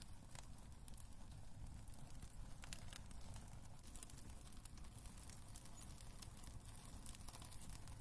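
Wood fire crackling in a fireplace: scattered, irregular snaps and pops over a low, steady rumble.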